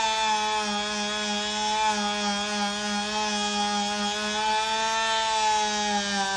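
Electric power tool motor running with a steady whine, its pitch dipping slightly near the end.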